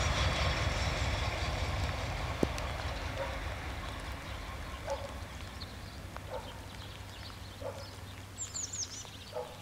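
Low rumble of a BR 628 diesel railcar fading steadily as it pulls away from the crossing, with a single sharp click about two and a half seconds in. In the second half, short bird calls come every second or so, with a quick run of high chirps near the end.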